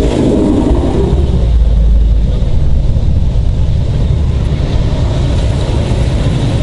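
Car engines rumbling as cars drive slowly past close by: a deep, steady exhaust rumble that swells about two seconds in.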